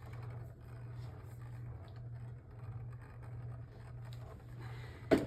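Two Beyblade Burst tops, Eclipse Genesis and Kerbeus, spinning against each other in a plastic stadium, giving a steady low whir with a light scratching of their tips. A brief sharp sound comes near the end.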